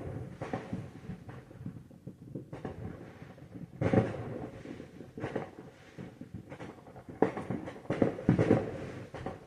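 Fireworks going off: a sharp bang about four seconds in, then a cluster of bangs and crackles between about seven and nine seconds in, each one trailing off.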